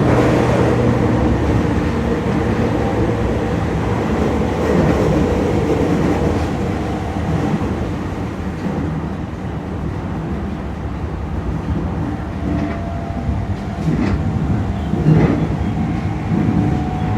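Toei 10-300 series electric train running on the Keio Line: steady wheel-on-rail noise with the whine of its Mitsubishi IGBT-VVVF inverter. A faint steady tone early on gives way to a slowly rising tone over the last few seconds, with a few rail-joint knocks near the end.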